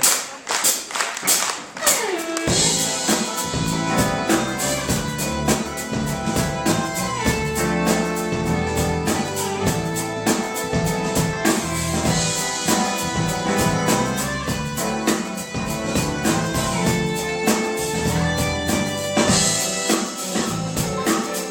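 Clapping for the first couple of seconds, then a live pop band starts an instrumental introduction: drum kit keeping a steady beat under bass and held melody notes.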